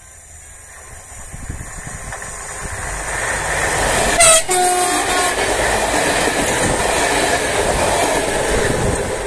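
Regional passenger train approaching and growing louder, with a short horn blast about four seconds in, then running past close by with rumble and wheel clatter on the rails.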